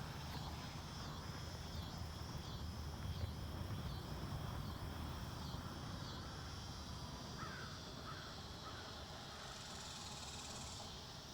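Woodland ambience: a low wind rumble on the microphone under a steady, pulsing high chirring, with three short calls about two-thirds of the way in.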